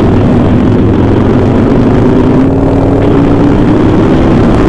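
Harley-Davidson Sportster air-cooled V-twin running steadily under way, its engine note holding level and rising slightly toward the end, over a constant rushing noise.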